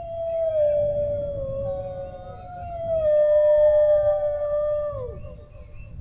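Dogs howling: long drawn-out howls that overlap, each sliding slowly down in pitch. The last one drops away sharply about five seconds in.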